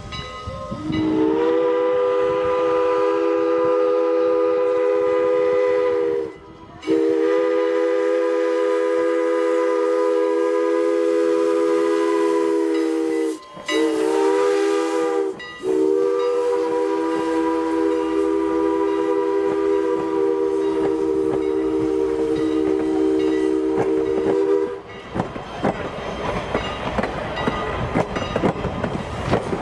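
Pennsylvania Railroad three-chime steam whistle blowing a steady chord in four blasts, long, long, short, long: the grade-crossing signal. The train then rolls past with its wheels clattering over the rail joints.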